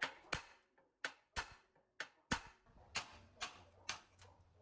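About nine sharp taps or knocks at an uneven pace, typical of hand-tool work on the mixer's parts.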